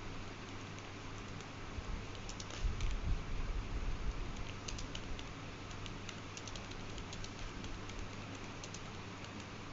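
Scattered light clicks at an irregular pace, thickest through the middle, over a low steady hum and hiss.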